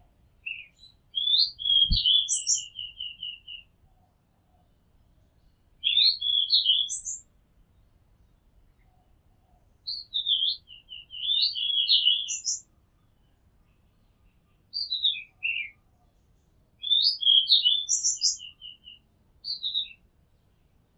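Oriental magpie-robin singing: five separate phrases of varied whistled notes, several ending in a quick run of repeated notes, with short pauses between them. A single low thump sounds about two seconds in.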